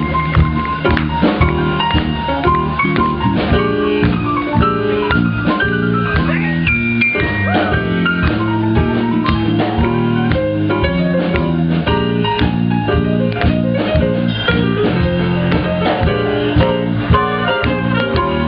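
Live band playing an instrumental break in a swing-blues tune: a drum kit keeps time under a lead line of quick melodic runs.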